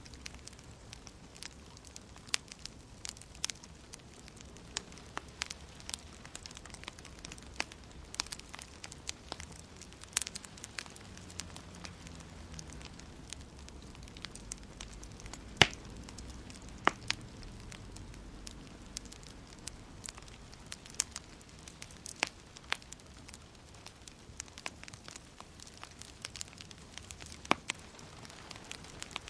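Wood fire in a fireplace crackling, with irregular sharp pops over a soft steady hiss and low rumble. One pop about halfway through is louder than the rest.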